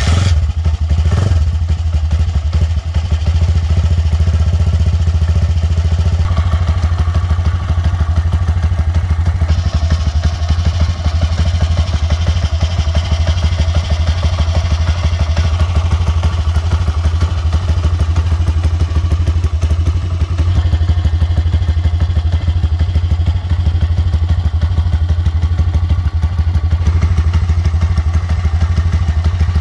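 Single-cylinder pit bike engine (XY 140/150cc) running steadily with a fast, even firing pulse and some mechanical clatter, its note shifting slightly a few times.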